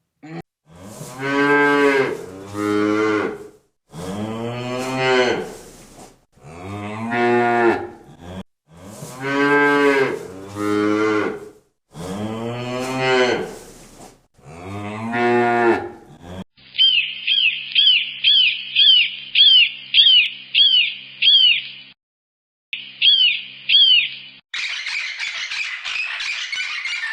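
A cow mooing in a series of long, drawn-out calls over about the first sixteen seconds. After that come about eight seconds of rapid, evenly repeated high chirps over a steady low hum, with a short gap. Near the end a harsh, noisy squawking begins.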